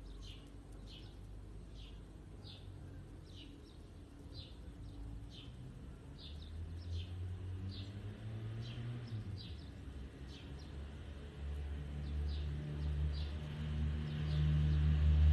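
A small bird calling repeatedly, short high chirps about twice a second that thin out near the end. A low engine rumble builds from about halfway and becomes the loudest sound.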